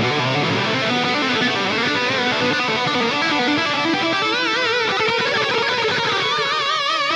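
Distorted electric guitar playing a lead solo through a Line 6 Pod Go high-gain preset: a Mesa Rectifier amp model with a Hedgehog D9 overdrive in front and a delay after. Quick runs of notes give way, about four seconds in, to held notes with wide vibrato.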